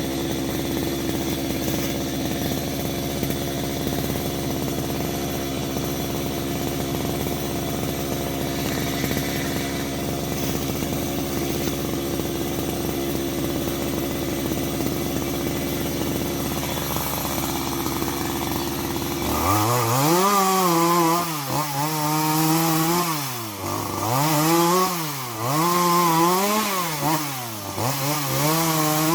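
A small engine runs at a steady speed, then about two-thirds of the way through is revved up and down repeatedly, roughly every two seconds.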